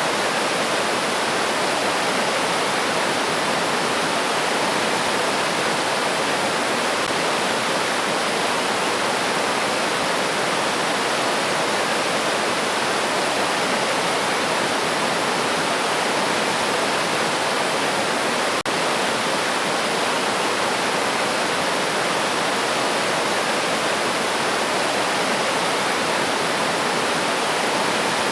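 River water rushing steadily, an even wash of flowing-water noise, broken once by a momentary dropout about two-thirds of the way through.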